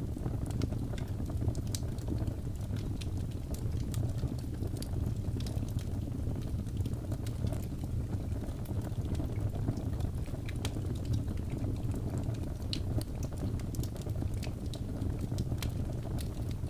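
Wood fire burning, with a steady low rumble of flames and frequent small crackles and pops scattered throughout.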